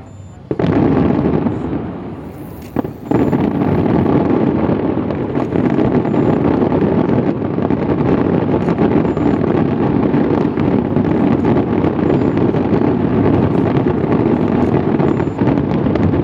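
Fireworks barrage: shells burst in rapid succession and run together into a continuous crackling rumble, like gunfire. It starts about half a second in, eases off briefly around two seconds, then comes back in full.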